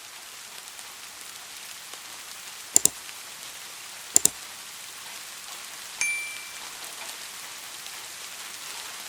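Steady rain hiss. Two sharp double clicks come about three and four seconds in, and a short ringing ding about six seconds in.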